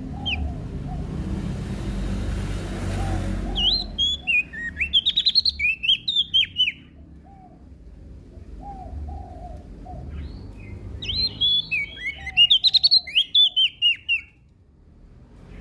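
Prenjak daun (a leaf warbler) singing two fast, loud bursts of sharp, down-sliding chirps, each about three seconds long. Softer, lower chirps come between the bursts over a steady low rumble.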